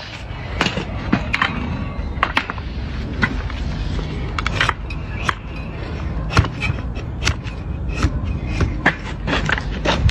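A donkey's hoof horn being cut and scraped with trimming tools: an irregular run of sharp clicks, cracks and scrapes, several a second, over a steady low rumble.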